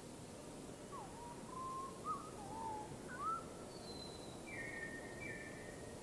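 A bird singing a phrase of whistled notes that slide up and down, followed near the end by a few higher, flat, drawn-out notes, over a steady background hiss.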